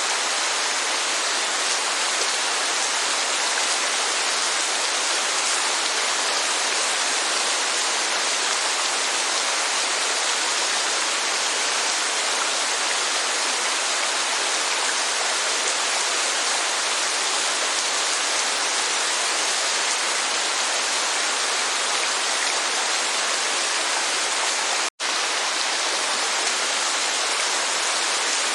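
Steady heavy rainfall: an even, unbroken hiss of falling water with no separate drops standing out. It cuts out completely for a split second about 25 seconds in, then carries on unchanged.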